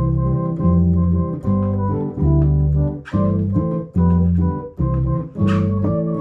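Yamaha electronic organ being played: held chords over a bass line that steps to a new note about every second, with two brighter cymbal-like hits, about three seconds in and near the end.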